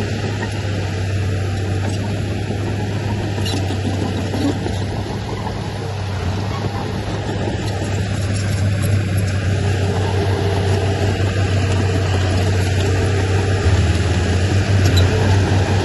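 Diesel engine of heavy earthmoving machinery running steadily under load, a deep drone that grows somewhat louder in the second half.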